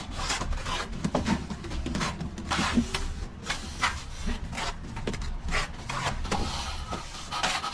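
Plastering trowel scraping across wet plaster or mortar in repeated, uneven strokes, about one to two a second.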